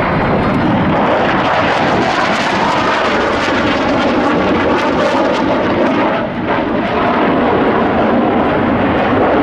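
Boeing F/A-18 Hornet jets of the Blue Angels flying the display, a loud, steady jet noise with a brief dip about six seconds in.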